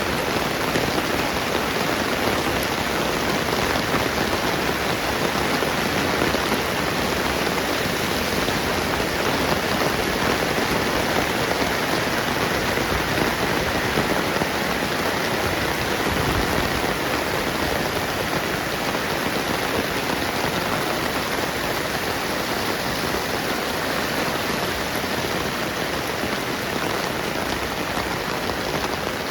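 Steady rainfall: an even, unbroken hiss of falling drops.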